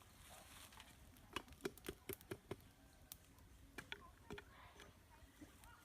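A run of light, sharp clicks and knocks: about six in quick succession a little over a second in, then a few more scattered ones near the middle.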